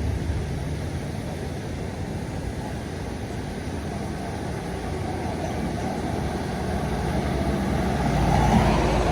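Road traffic with a heavy vehicle's diesel engine running. The engine noise grows louder over the last couple of seconds as the vehicle approaches.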